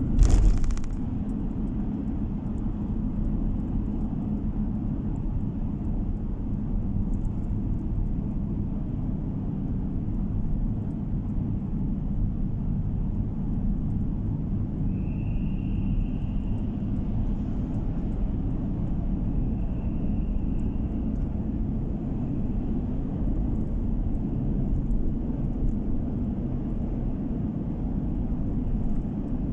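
Steady low road and engine rumble of a car being driven, heard from inside the cabin, with a brief loud thump right at the start.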